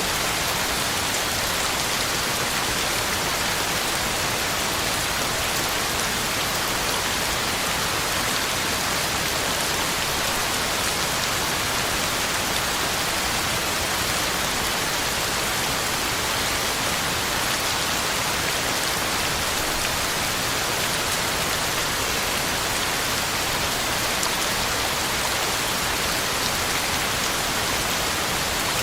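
Heavy rain falling steadily, a constant hiss of drops hitting the ground and leaves, with no let-up or thunder.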